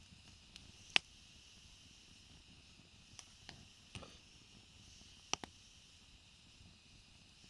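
Wood burning in a small hobo stove, a faint steady hiss with scattered sharp crackles and pops, the loudest about a second in.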